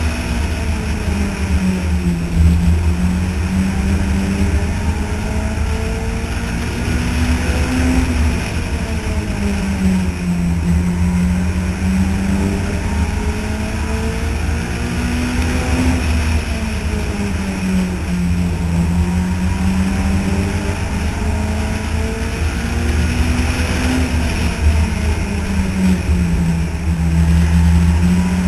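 Outlaw compact race cars lapping an oval, their engines running hard with the pitch climbing and falling in a repeating cycle about every eight seconds as they accelerate and lift each lap.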